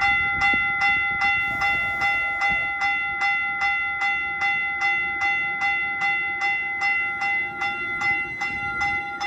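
Railroad grade-crossing bell ringing steadily, about two and a half strikes a second, over the low rumble of a train.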